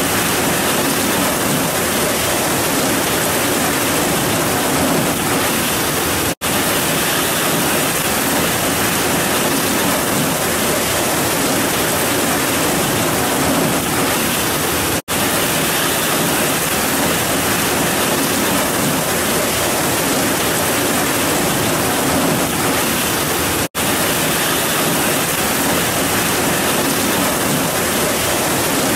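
Heavy rain pouring steadily in a dense, even hiss, cutting out to silence for a split second three times.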